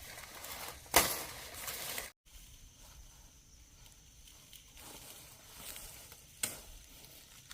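Rustling handling noise with one sharp crack about a second in. After a brief dropout it gives way to quieter outdoor background with a single faint click.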